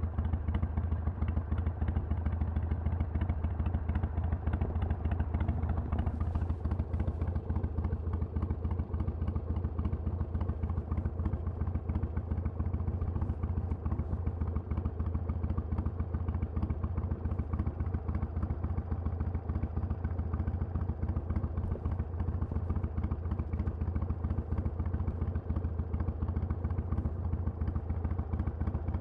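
Harley-Davidson Sportster XL883L's 883 cc air-cooled V-twin running steadily through a Vance & Hines Twin Slash exhaust, its deep firing pulses holding an even pitch and loudness.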